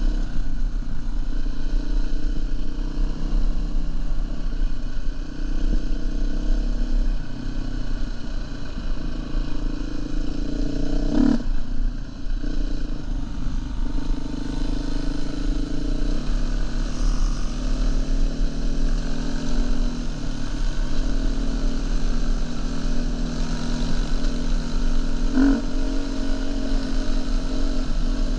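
Dirt bike engine running steadily while riding, its pitch drifting a little with the throttle. Two brief knocks come through, one about eleven seconds in and one near the end.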